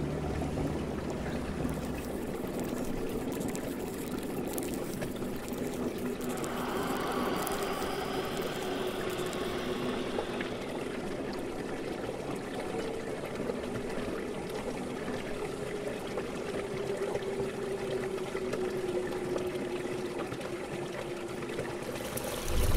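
Water trickling and running in a shallow stream, steady throughout.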